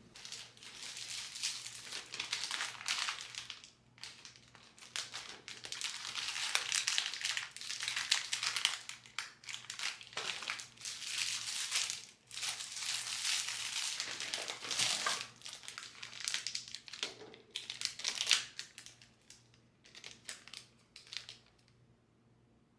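Crinkly material such as paper or plastic wrap being crumpled and handled, in bursts with short pauses, dying away near the end.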